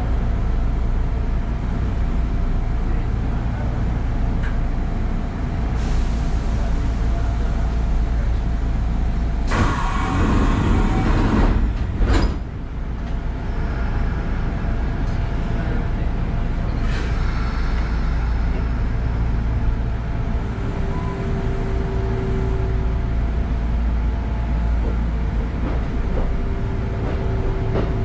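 Kintetsu Ikoma Line electric train standing at a station with a steady low hum of its equipment. About ten seconds in comes a hiss of air ending in a knock, the sound of the doors closing. In the second half a faint steady tone comes and goes as the train starts to move off.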